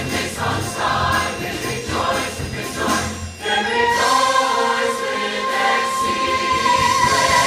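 Large choir singing a Christmas carol with orchestra, performed live. About halfway through, the choir settles onto a long held high note.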